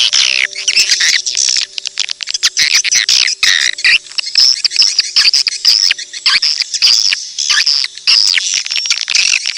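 Swiftlet lure-call recording: dense, overlapping high twittering chirps and clicks of many swiftlets, the call played in swiftlet houses to draw the birds in to nest. Faint steady low tones sit underneath.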